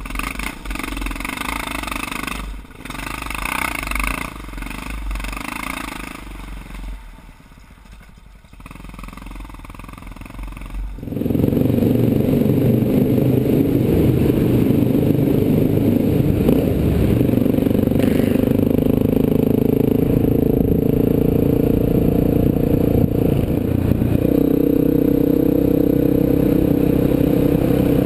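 Big single-cylinder dual-sport motorcycle engines running under way on a dirt road, with rattling and wind on a helmet-mounted microphone. About 11 seconds in the sound dips and then jumps to a louder, steady engine drone.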